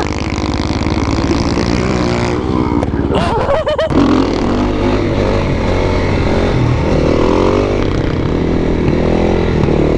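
Supermoto motorcycle engine running and revving, its pitch rising and falling, with wind noise on the microphone.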